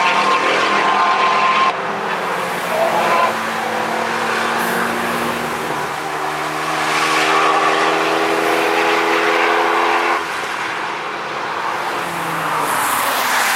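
Cars driving past at speed on a racetrack, engines running hard under load and on the overrun. The engine note changes abruptly twice as one passing car gives way to the next.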